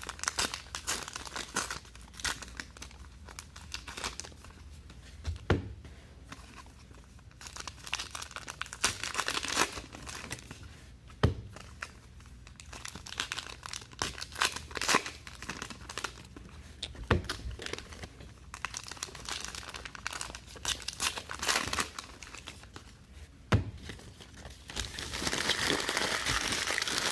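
Trading card pack wrappers being crinkled and torn open by hand, with irregular crackling and a sharp tap on the table about every six seconds.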